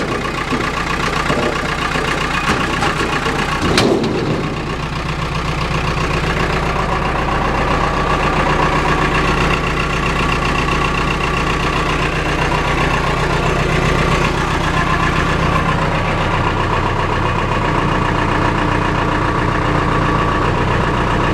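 Cummins 3.9-litre four-cylinder diesel of a Case 570 MXT tractor idling steadily, with one sharp click about four seconds in.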